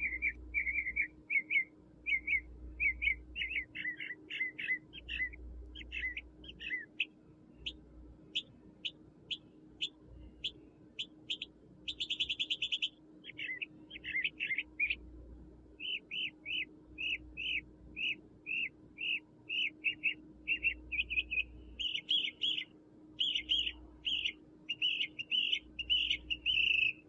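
A songbird singing: a long run of short, quick high chirping notes in changing phrases, with a brief buzzy trill about twelve seconds in. A faint steady hum lies underneath.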